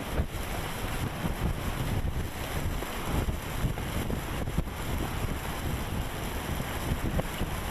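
Strong blizzard wind gusting across the microphone: a steady rush of noise with constant low, fluttering buffeting.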